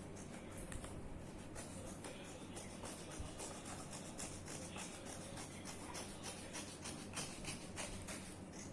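Scissors cutting through paper: a run of faint, quick snips.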